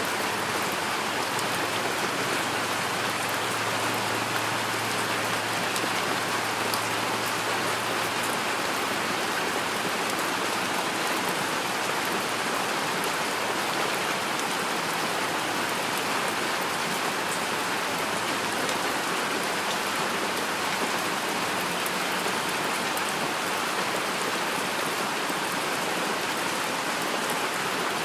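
Steady rainfall: an even hiss of many drops that holds at one level throughout, with no thunder or other events.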